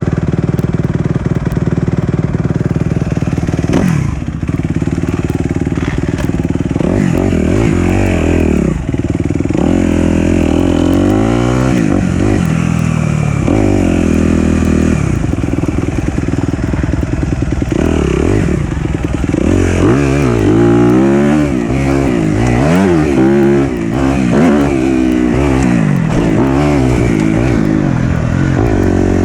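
Four-stroke dirt bike engine revving up and down over and over on the throttle, its pitch rising and falling every second or two.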